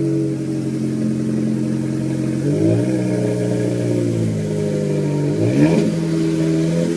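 2016 Chevy Colorado's 2.5-litre inline-four running through an MBRP aftermarket exhaust. It holds a steady speed, drops to a lower, steady pitch about a third of the way in, then revs up quickly near the end and settles at a slightly higher speed.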